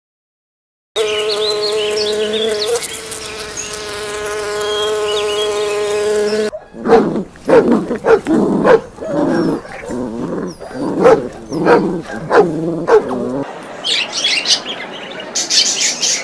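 A sequence of animal sounds: a steady, insect-like buzz for about five seconds, then a quick run of short repeated animal calls, then high chirping near the end.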